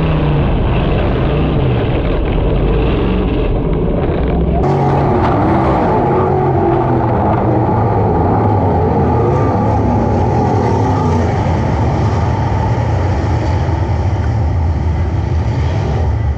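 410 sprint car V8 engines running hard on a dirt oval, their pitch rising and falling as they power through the corners. The sound changes abruptly about four and a half seconds in.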